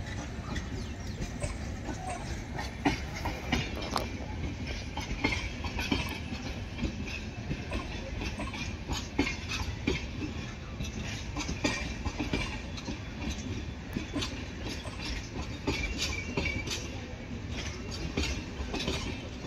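Passenger coaches of an Indian Railways express train rolling past at arrival speed: a steady low rumble of wheels on rail, with many irregular clicks and clanks as the wheels run over rail joints.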